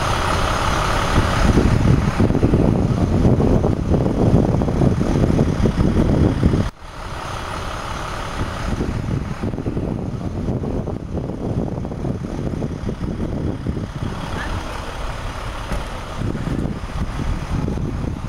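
Traffic noise with a heavy vehicle's engine running, loud for the first seven seconds, then dropping suddenly to quieter traffic noise.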